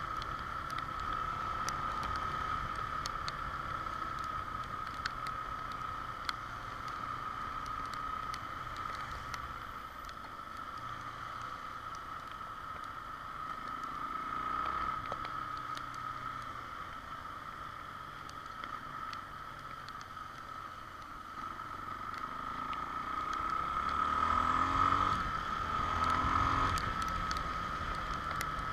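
Honda XR Tornado motorcycle being ridden: engine running under steady wind and road noise, swelling louder with a rising pitch about 24 seconds in.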